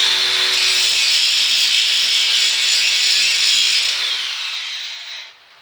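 Angle grinder with a grinding disc grinding cast iron, a loud, hissing, high-pitched grind over a steady motor whine. It tapers off and stops near the end.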